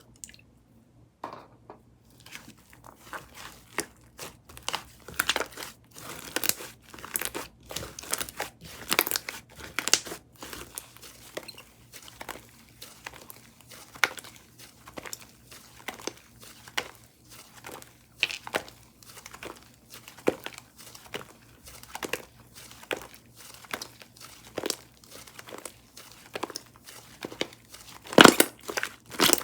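Whipped-cream-style slime being pressed, stretched and squished by hand. It gives a dense run of crackles and pops that starts about a second and a half in and is loudest near the end.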